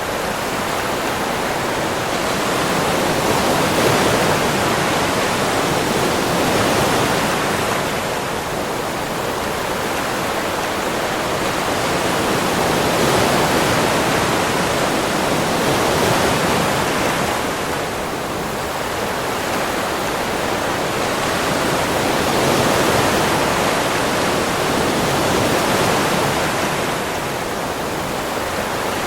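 Sea waves washing onto a beach: a continuous rush of surf that swells and eases slowly, one surge every several seconds.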